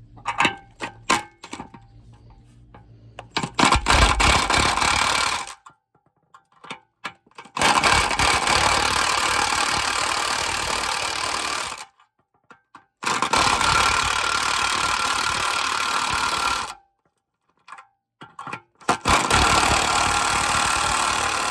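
Power tool run in four bursts of two to four seconds each, starting and stopping abruptly, with short clicks and knocks between, driving a press that pushes a new transmission mount into the subframe.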